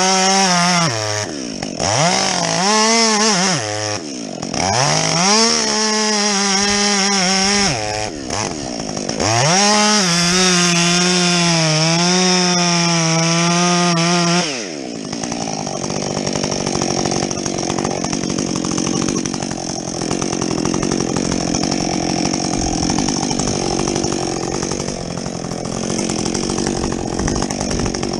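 Husqvarna 562XP two-stroke chainsaw with a modified muffler, revved to full throttle four times in quick succession as it cuts through wood, the longest cut about five seconds with the pitch dipping under load. After about fourteen seconds it drops back to a steady idle.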